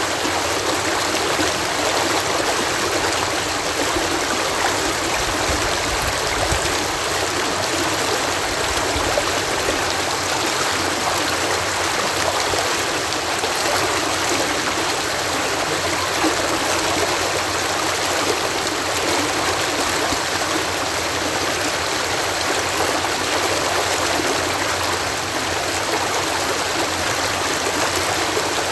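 Water cascading steadily over a canal lock, a continuous even rushing.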